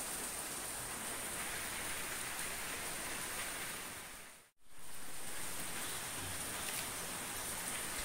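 Steady rain falling, an even hiss of drops on surfaces. About halfway through, the sound fades out to silence for a moment and comes straight back, as at a cut in the recording.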